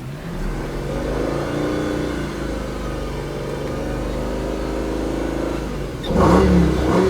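2007 Audi S8's 5.2-litre V10 starting up, its idle rising and then settling steady, followed by two short revs near the end.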